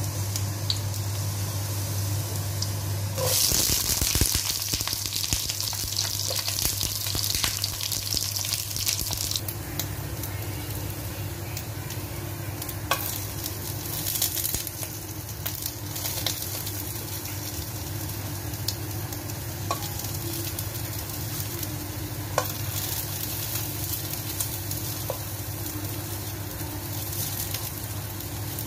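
Eggplant slices frying in oil in a nonstick pan: a steady sizzle, louder for several seconds a few seconds in while the slices go into the hot oil. Occasional light clicks of metal tongs against the pan and the pieces as they are turned.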